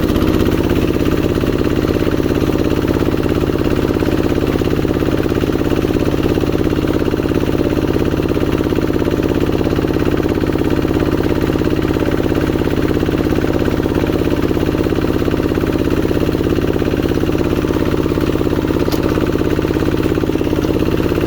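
Old Kubota RD85 single-cylinder diesel engine running steadily, powering a tractor ploughing a rice paddy.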